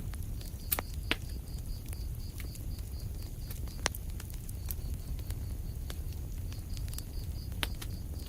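Wood fire crackling in a fireplace: a steady low rumble of flame with many small ticks and a few sharp pops, the loudest about a second in, near four seconds and near the end. A faint high chirp repeats about five times a second through most of it.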